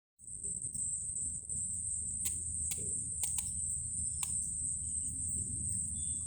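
Insects keep up a steady, high-pitched drone, typical of crickets, over a low background rumble. About six short, sharp clicks are scattered through the middle.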